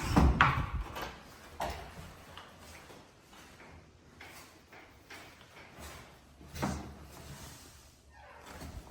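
Doors in a restroom being handled: a loud knock and bump at the start, then a couple of lighter knocks and clicks, one about a second and a half in and another near seven seconds.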